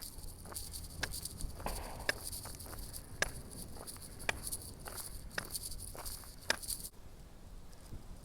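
Footsteps of a person walking, about one step a second, over a steady high-pitched insect chorus that cuts off suddenly near the end.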